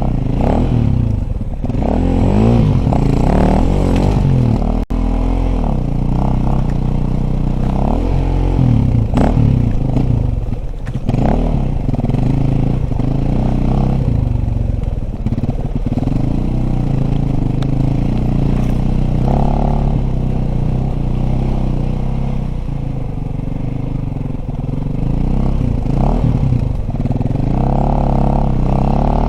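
Dirt bike engine being ridden, the revs rising and falling over and over with throttle changes, with clattering and scraping mixed in.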